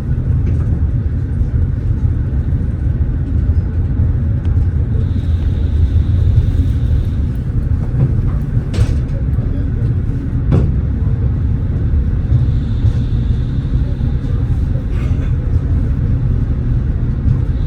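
Tatra tram running, heard from on board: a steady low rumble of wheels and running gear on the rails. Two sharp knocks come about two seconds apart near the middle, and a faint high whine comes and goes twice.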